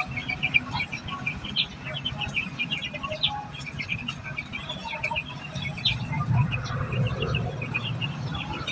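Society finches chirping: a dense, unbroken run of short high chirps. A low rumble swells briefly about six seconds in.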